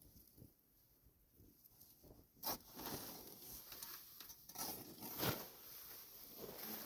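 Near silence, then from about two and a half seconds in, faint irregular crunching and rustling with a few sharper crunches: a hiker moving through deep snow.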